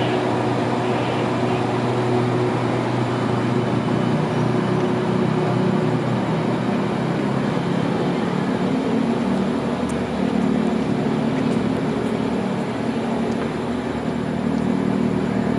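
QSY-class diesel-electric locomotive's engine running steadily with a low hum. Its pitch rises a little about four seconds in.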